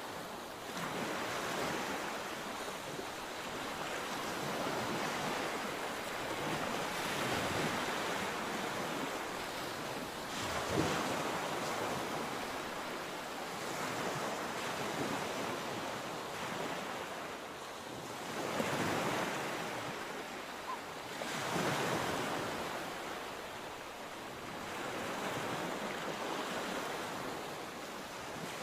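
Sea waves breaking and washing onto the shore, the surf swelling and falling back every few seconds, with wind on the microphone.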